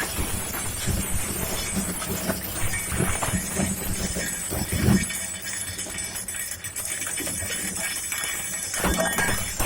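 Shredder running with irregular crunching and clinking as it crushes glass. The crunching thins out about halfway through and picks up again near the end.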